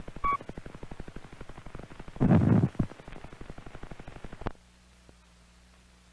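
Noise from an old optical film soundtrack after the narration has ended: a rapid, even ticking with a brief beep near the start and a loud thump a little over two seconds in. About four and a half seconds in the ticking stops suddenly and only a low steady hum remains.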